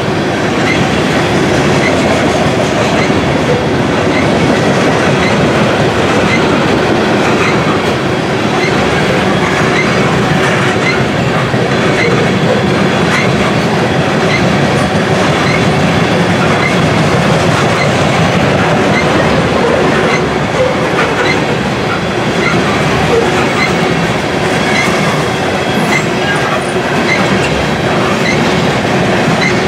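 Freight train of covered hopper cars rolling past at speed: a steady rumble of steel wheels on the rails with a rhythmic clickety-clack of the wheels over the track.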